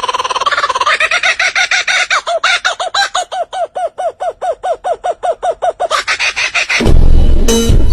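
A bird calling: a rapid rattling trill, then a fast run of repeated arched notes, about five a second. Near the end a loud, low, rumbling sound cuts in over it.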